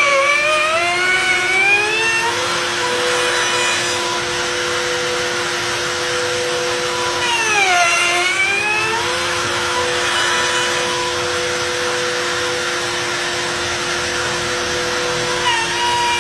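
Electric wood router running with a steady whine over a hiss; its motor pitch sags and recovers three times, about eight seconds apart, as it bites into the wood under load.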